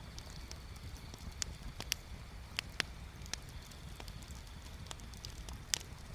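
Wood bonfire crackling: irregular sharp pops and snaps, a few louder ones standing out, over a low steady rumble.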